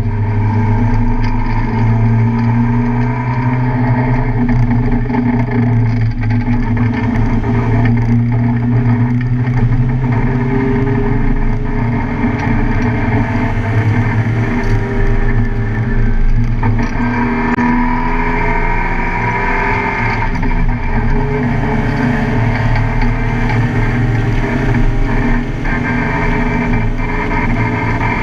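Car engine running hard during a track lap, loud and continuous, its pitch rising and falling with the throttle.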